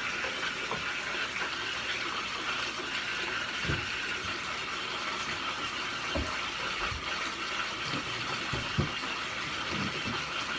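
Bathtub tap running, water pouring steadily into a filling tub, with a few soft low thumps in the middle.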